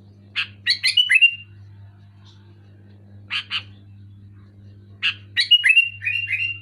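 Sooty-headed bulbul calling: three quick phrases of short, bubbly notes, the first and last ending in down-slurred whistles, with a pair of short notes between them. A faint steady low hum lies underneath.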